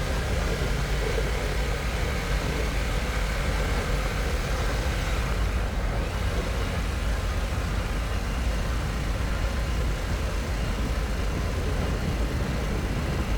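A 2022 Harley-Davidson Pan America's Revolution Max 1250 V-twin runs steadily while riding, mixed with steady wind and road noise.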